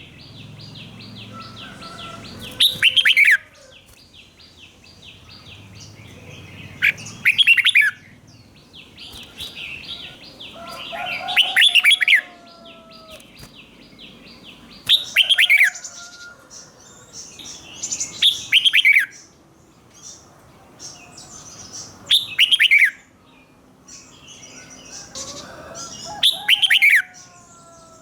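Red-whiskered bulbul singing loud, short song phrases that fall steeply in pitch, one about every four seconds, in the doubled song style that bulbul keepers use to teach young birds. Between the early phrases runs a fast, even ticking chatter.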